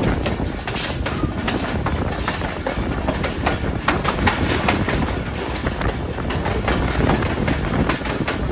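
Moving passenger train: a steady low rumble of the running train with frequent sharp, irregular clicks and clatter from the wheels on the track.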